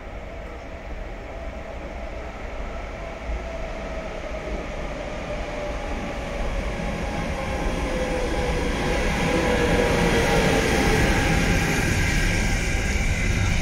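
Container freight train approaching and passing: a rumble that grows steadily louder, with a hum whose pitch slides slowly down as the locomotive goes by, then the container wagons rolling past.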